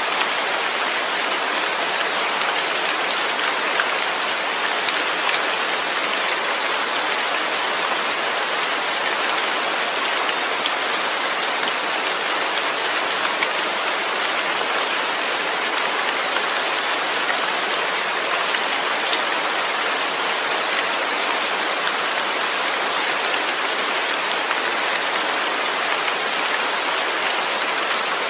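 Steady rain falling, a dense, even hiss of drops without pause.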